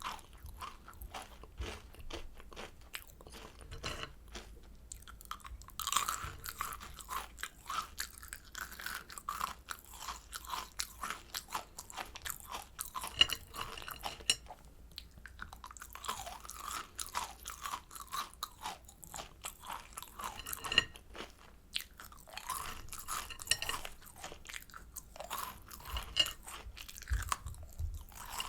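Close-miked chewing of kohakuto, the sugar-crusted Japanese agar jelly candy: the crisp crust crackles and crunches between the teeth in clusters of quick clicks, with quieter moments between bites.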